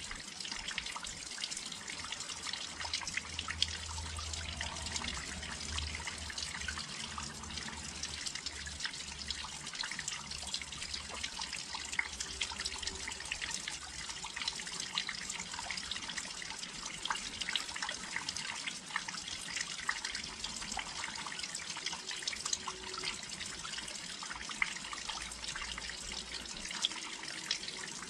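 Steady rain falling close by, a constant hiss with many individual drops ticking and pattering on the windowsill.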